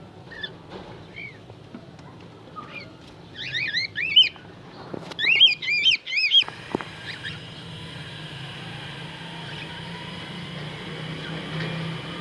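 Cockatiels chirping: two loud flurries of quick, arched whistling chirps a few seconds in, then fainter calls over a steady low hum.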